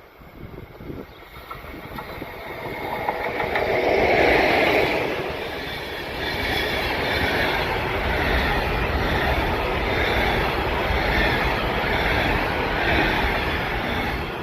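A train passing close by on the rails: it builds up to its loudest about four seconds in, then runs on steadily as the cars go by, swelling and easing about every second and a half.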